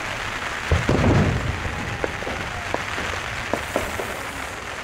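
A firework shell bursting with a low boom about a second in, over a steady hiss of wind and rain, followed by a few scattered light ticks.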